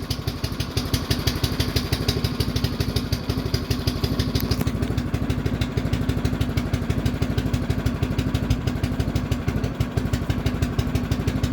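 An engine running steadily at idle, a fast even pulsing with a steady low hum.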